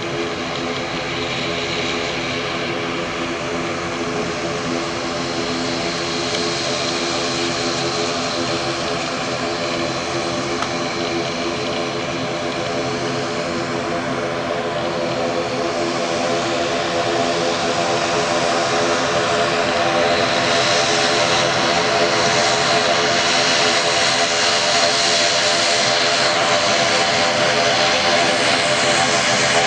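ATR 72 turboprop airliner's engines and propellers running, a steady droning hum of propeller tones with a rushing hiss on top. It grows louder through the second half.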